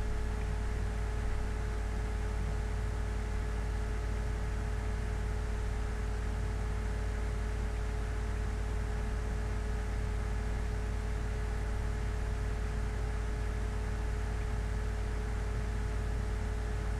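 Steady low hum with an even hiss and a faint steady tone above it, unchanging throughout: background room or equipment noise with no other events.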